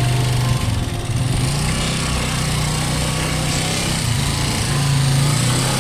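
Small motorcycle engine running with a steady low hum, its pitch shifting slightly a couple of times with the throttle, over wind and road noise.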